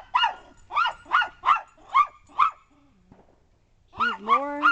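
Poodle barking in a quick run of high, sharp yips, about six in two and a half seconds. After a short pause, a longer drawn-out call comes near the end.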